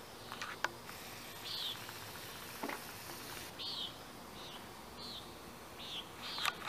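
A bird calling outdoors: a series of short, high chirps, about six of them, roughly a second apart over steady background hiss. A few sharp clicks cut in, the loudest about half a second in.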